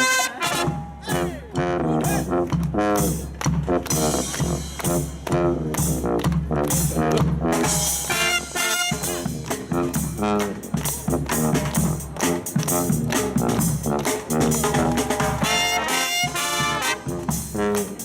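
Live brass band playing an upbeat, rhythmic tune of short, punchy notes over a steady bass line, right after a long held chord cuts off at the start.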